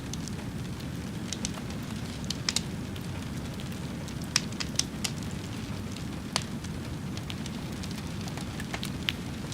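Fire burning with a steady low rumble under irregular sharp crackles and pops, a few of them louder than the rest.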